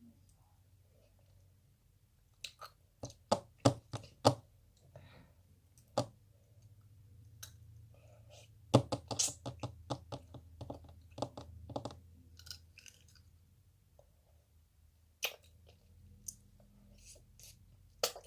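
Chewing tangerine tanghulu, the hard candied sugar shell cracking between the teeth in sharp crunches. There is a short run of crunches a few seconds in, a denser run around the middle, and a couple of single cracks near the end.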